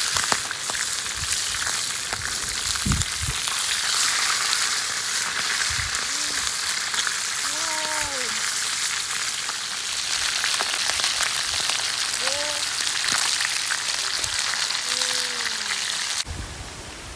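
Chicken thighs sizzling in hot oil in a frying pan over a wood fire, a steady dense hiss, stirred with a wooden spatula; the sizzle drops off abruptly near the end.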